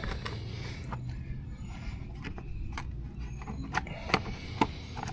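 Scattered light clicks and taps of a bolt and tool being worked against an ATV's plastic cover while trying to start the bolt, over a low steady hum. A few sharper taps come near the end.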